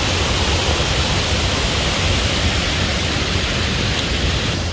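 Steady, loud rushing roar of strong wind from a dust devil, buffeting the microphone.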